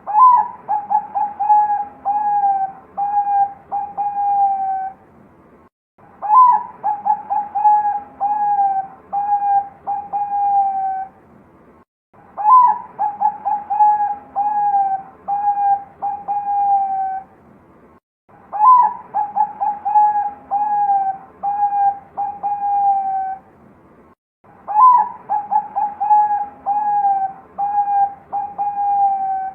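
Zebra dove (Bangkok-type perkutut) cooing loudly in five repeated song phrases, one about every six seconds. Each phrase opens with a higher note, runs into a quick string of short coos and ends on longer, lower held coos.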